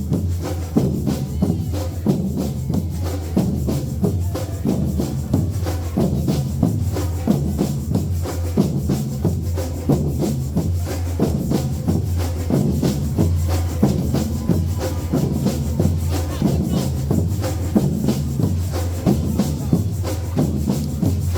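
Percussion-driven music played as a performance: fast, continuous rattling percussion and drums over a steady low bass.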